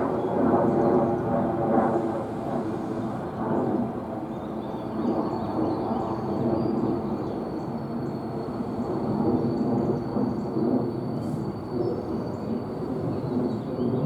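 NJ Transit train rumbling through the station, with a thin high steady whine setting in about three seconds in.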